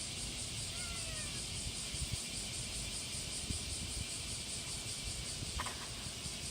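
A steady, high-pitched insect chorus with a slight pulsing, over a low outdoor rumble. A few faint falling chirps come about a second in.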